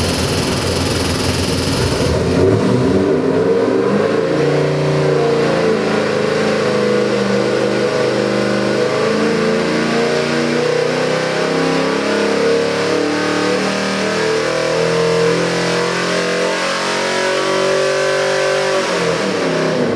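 Ford 347 cubic-inch stroker small-block V8 crate engine running, its pitch rising and falling as the revs change.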